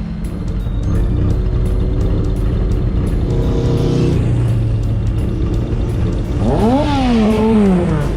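Motorcycle engine running on the road, revving up and then easing back down near the end.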